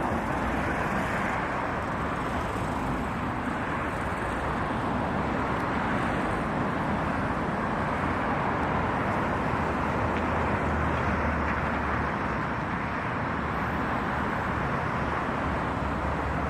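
Steady road traffic noise, an even rumble of passing cars without breaks.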